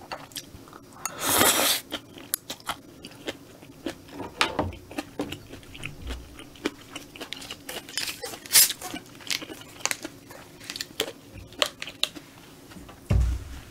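Close-miked chewing and crunching of a mouthful of spicy stir-fried squid and bean sprouts: irregular wet clicks and crackles throughout, with a brief louder rush of noise about a second in.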